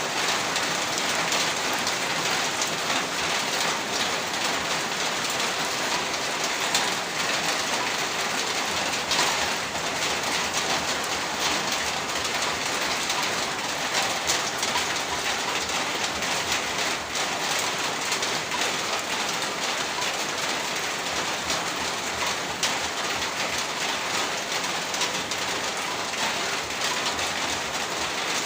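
Heavy rain falling steadily, a dense, even hiss made of countless drops, with no letup.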